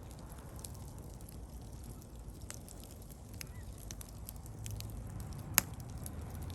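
Wood bonfire crackling, with scattered small pops and one sharp, loud pop about five and a half seconds in, over a low steady rumble.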